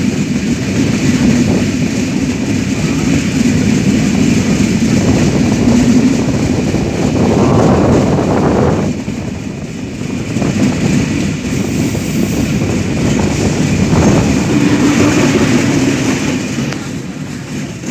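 Nilsagar Express passenger train running along the track, a steady rumble that dips briefly about nine seconds in.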